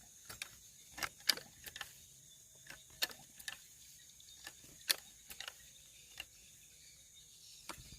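Irregular sharp clicks and snaps, about a dozen, scattered over a steady high-pitched drone of night insects.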